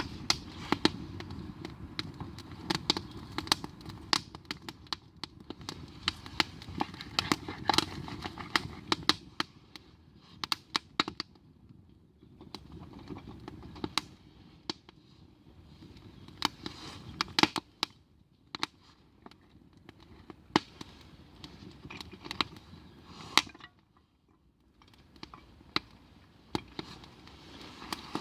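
Wood campfire crackling, with irregular sharp pops and snaps, some much louder than the rest.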